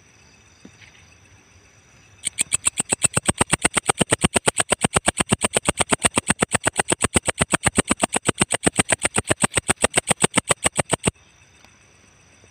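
Walang ecek katydid singing: a loud, fast, even run of sharp ticking chirps, about seven a second, that starts suddenly about two seconds in and stops abruptly near the end.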